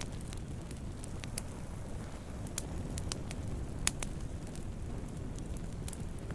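Wood campfire burning, a low steady rumble of flames with irregular sharp crackles and pops from the burning wood; the loudest pop comes about two-thirds of the way through.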